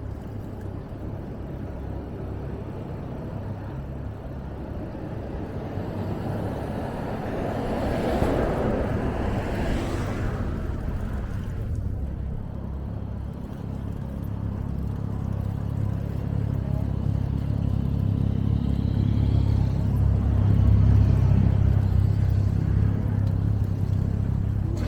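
Road traffic rumbling steadily, with a vehicle passing about eight seconds in and the rumble building again toward the end.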